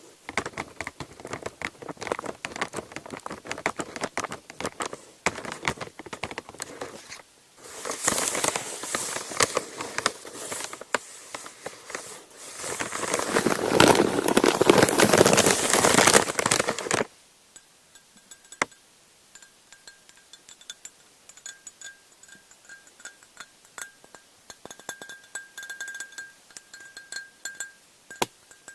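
Paper crinkling and crackling close to the microphone, growing into loud steady crumpling. About 17 seconds in it stops and gives way to light, ringing taps on small lids.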